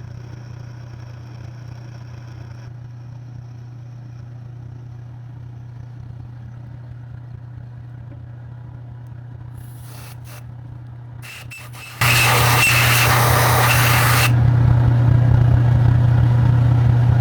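Milling machine motor running with a steady hum while a hole is drilled to depth in a 4140 steel block. A few clicks come near ten seconds in. About twelve seconds in, the sound turns suddenly much louder, with a harsh hiss for a couple of seconds and then a heavier, steady hum.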